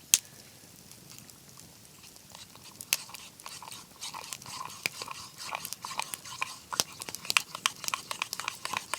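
Spoon stirring dehydrated egg crystals and water in a cup into a slurry: a rapid run of small clicks and scrapes that starts about three and a half seconds in, after a single click at the start.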